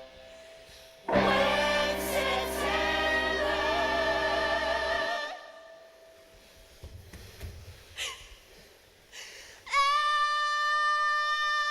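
Voices singing with accompaniment: a full chord with vibrato comes in about a second in and breaks off about five seconds in. After a few seconds of near quiet with a few faint small sounds, a single steady note is held near the end.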